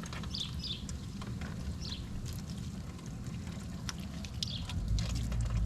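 Birds chirping several times over a steady low rumble, with faint crackling ticks, likely baking soda and water fizzing on a corroded battery terminal. A deeper rumble comes in near the end.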